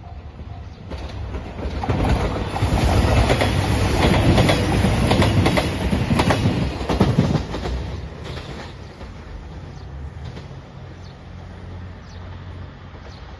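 A JR Shikoku 2700 series diesel train passes, its wheels clacking over the rail joints. The sound swells about two seconds in, stays loud for about five seconds, then fades away.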